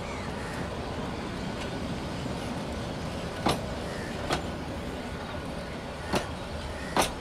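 Passenger train coaches rolling past close by: a steady rumble of wheels on rail, with four sharp clacks from the wheels over the track, the loudest near the end.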